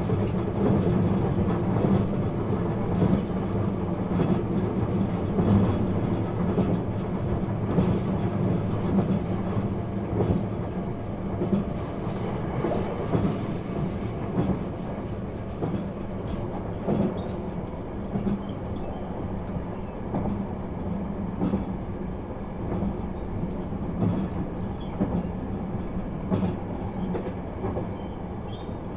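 JR East 651 series electric multiple unit heard from inside the car while running: a steady rumble of wheels on rail with scattered clicks over rail joints. It eases a little in loudness around the middle.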